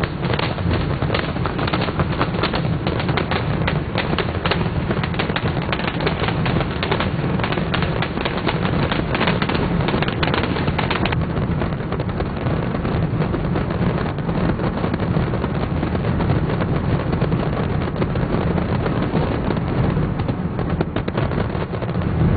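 A large fireworks display going off: rapid bangs and crackles overlapping in quick succession. After about eleven seconds the separate sharp reports give way to a steady, dense wash of sound.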